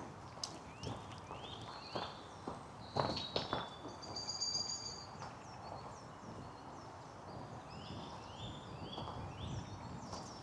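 Songbirds singing: runs of short, quick chirps and a brief high whistle in the middle, over footsteps on a path with a few louder knocks about a third of the way in.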